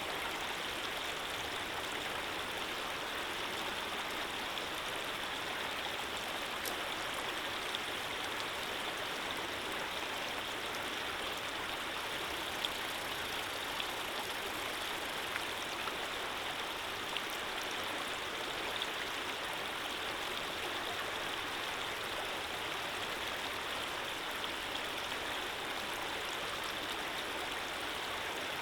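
Steady flowing water with a constant even rush and a few faint drips and splashes on top.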